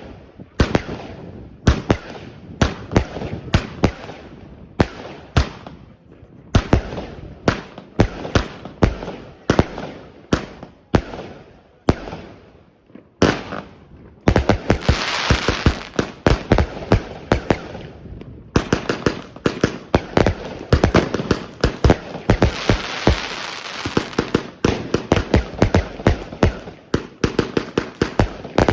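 Katan 'Tornado' firework going off: a long run of sharp bangs, about one to two a second, with spells of dense crackling about halfway through and again later on.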